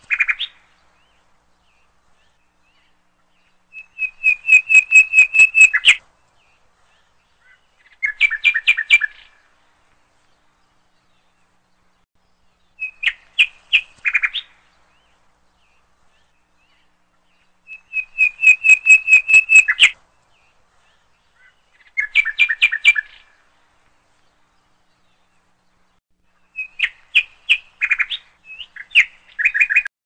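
Bird calls: bouts of rapid, evenly repeated chirping notes, each bout one to two seconds long, coming about every four or five seconds, six times, with dead silence between.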